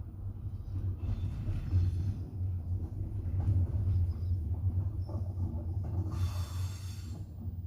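Steady low rumble of a moving double-decker passenger train, heard from inside the carriage, with a brief hissing rush about six seconds in.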